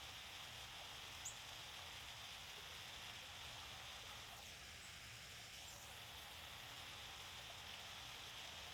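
Small waterfall: water falling and splashing as a faint, steady rush.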